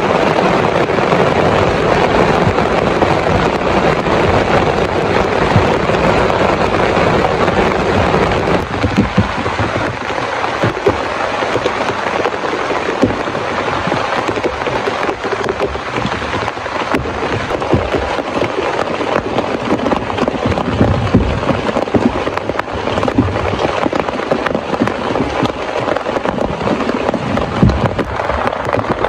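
Heavy rain falling hard: a dense, steady patter of countless sharp drop impacts, easing slightly about nine seconds in.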